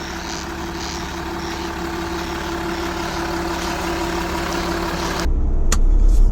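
A vehicle driving along: steady engine and road hum. About five seconds in it changes abruptly to a louder, deeper rumble.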